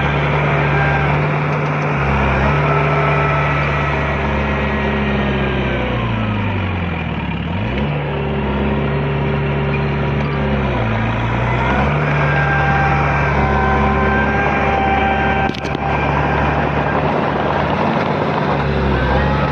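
Heavy-equipment diesel engine running steadily; its pitch drops sharply and comes back up about seven seconds in, and dips again a few seconds later. A single brief knock sounds near the end.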